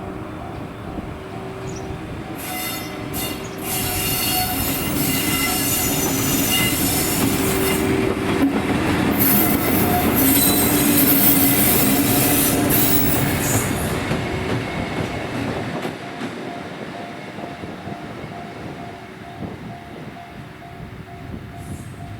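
Freight train hauled by an EF81 electric locomotive rolling past, its wheels squealing shrilly on the rails for roughly the first half; the sound swells to a peak around the middle and then fades.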